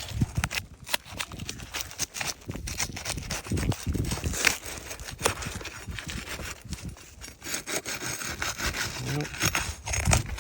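Flat pry bar scraping and prying under old asphalt 3-tab shingles to lift them, an irregular run of scrapes and cracks.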